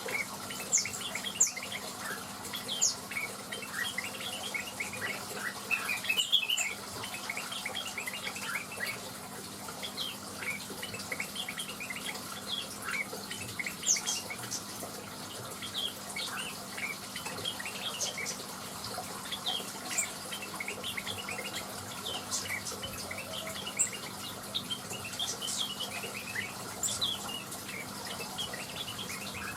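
Cucak wilis (blue-winged leafbird) and other small birds chirping and singing: a dense, continuous run of short high notes and twitters, some louder single calls standing out.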